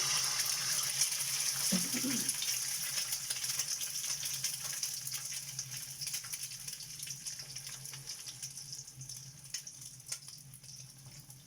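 Egg frying in hot oil: a loud sizzle with crackling spatter that slowly dies down.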